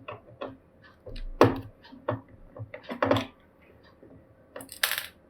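Small clicks and taps from a precision screwdriver and hands working the tiny screen screws out of a laptop. The loudest knocks come about a second and a half and three seconds in, and there is a brief scratchy rustle near the end.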